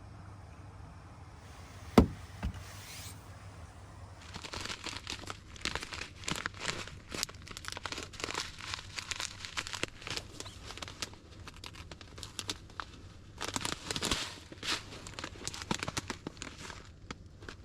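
A single sharp knock, then a long run of crinkling and rustling, as of crinkly material being handled, with a short lull in the middle.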